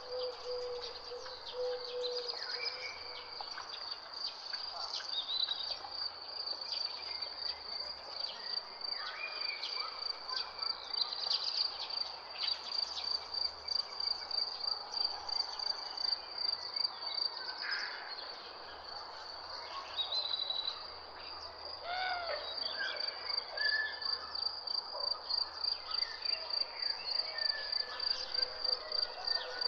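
A steady, rapid cricket trill, with assorted birds calling intermittently over it and a low hooting call in the first couple of seconds.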